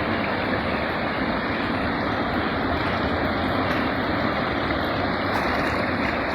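A river in heavy flood, its water rushing in a steady, unbroken noise.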